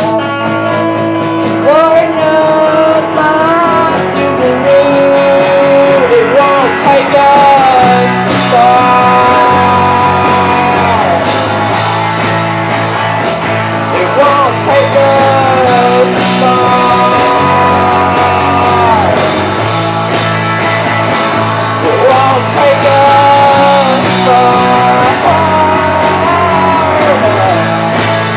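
Live rock band playing at full volume: a sliding, bending lead melody over bass and a steady drum beat.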